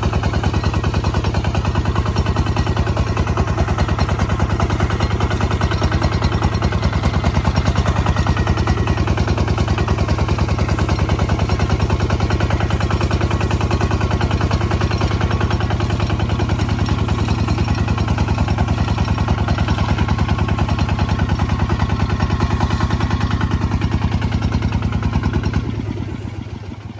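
Kubota ZT155 DI single-cylinder diesel engine running steadily under load with an even thudding beat, as when plowing. Near the end it drops back to a quieter, slower idle.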